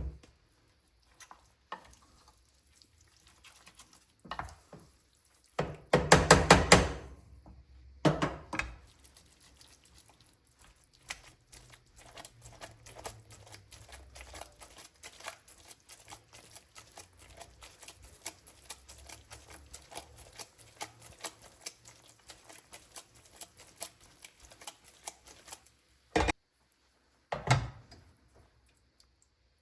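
Risotto being stirred and beaten in the pan with a spoon while butter and Parmesan are worked in (the mantecatura), a long run of quick small clicks and scrapes. A couple of louder clatters come early, and two short knocks of a utensil against the pan come near the end.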